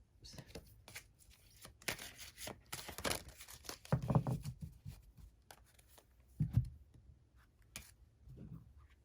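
Tarot cards being handled and drawn from the deck: paper rustling, sliding and scraping of cards, with two soft thumps about four and six and a half seconds in.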